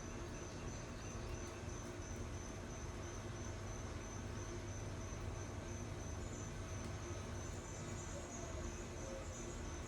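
Summer insect chorus, a high pulsing trill that runs on without a break, over a low steady hum.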